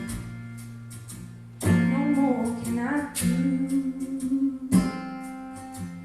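Guitar strumming slow chords, each left to ring, accompanying a woman's singing, with a short sung phrase about two seconds in.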